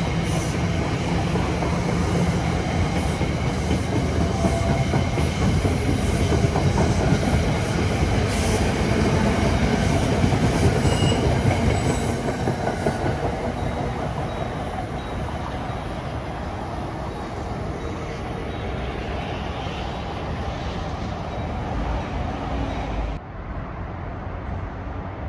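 Electric passenger train passing through the station at speed without stopping, loud for roughly the first ten seconds, then fading as it moves away. The sound drops suddenly near the end.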